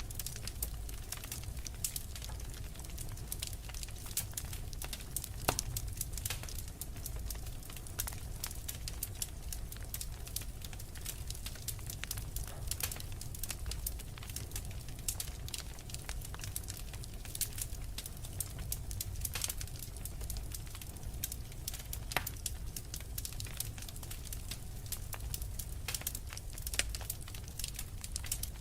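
Logs burning in a fireplace: a dense, irregular crackle of small sharp pops over a low steady rumble of the fire, with a few louder pops standing out.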